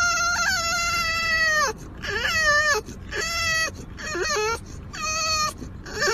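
Cat meowing insistently in a run of about six long, high calls, the first drawn out for nearly two seconds and the rest shorter and wavering.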